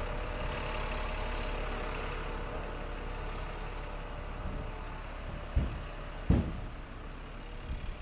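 A vehicle engine idling steadily, with two sharp thumps about five and a half and six and a half seconds in.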